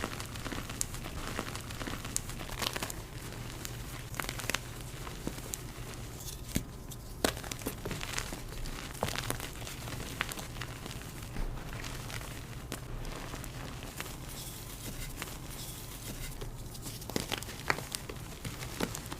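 Blocks of dyed gym chalk being crushed and crumbled by hand: dry, crumbly crunching with irregular sharp cracks as pieces break.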